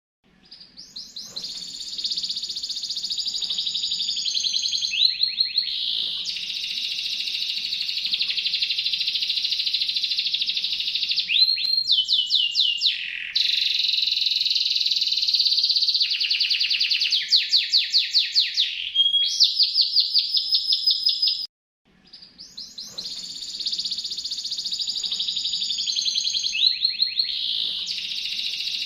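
Domestic canary singing: long rolling trills of rapid repeated notes, switching from one trill to the next every few seconds. The song cuts off twice and fades back in, repeating the same sequence as a looped recording.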